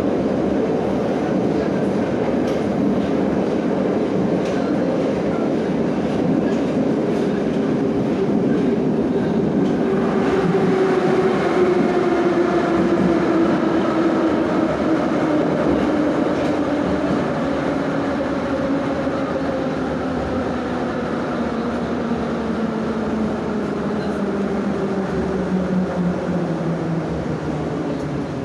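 Moscow metro 81-717/714 'Nomernoy' train running in the tunnel, its wheels rumbling on the rails. From about ten seconds in, a whine from the traction motors and gearing falls steadily in pitch as the train slows for the next station.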